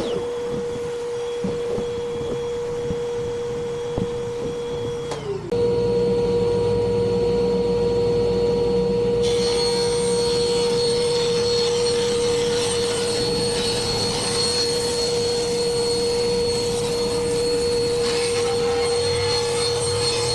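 Shop vacuum and a woodworking power tool running steadily with a constant motor hum. The hum dips briefly about five seconds in and comes back louder, and a hiss like cutting wood joins it about nine seconds in.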